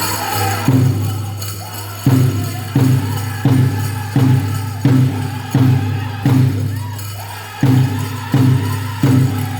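Powwow drum group playing a large hand drum in a steady beat, about one stroke every 0.7 seconds, with singing and the jangle of dancers' bells. The beat pauses briefly twice.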